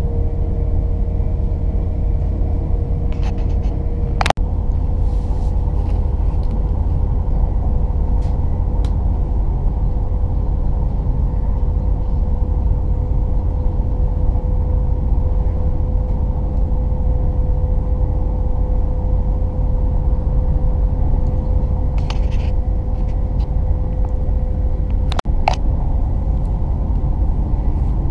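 Hitachi Class 800 train running at speed, heard from inside the carriage: a steady, heavy rumble with a constant whine. Two brief clicks break it, about four seconds in and near the end.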